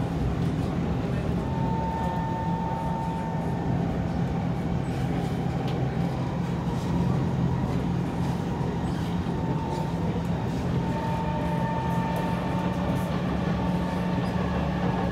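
Kawasaki C151 metro train running along the track, heard from inside the carriage: a steady rumble with a faint high tone that comes and goes.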